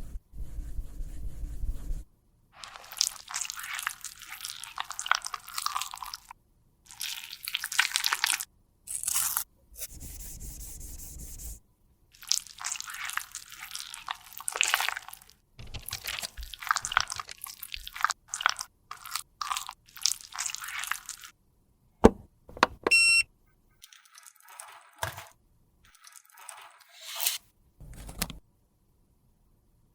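Close-up crunching and scraping of foundation being worked with tools, in short separate stretches that start and stop abruptly. Two-thirds of the way through there is a sharp click and a brief ringing tone.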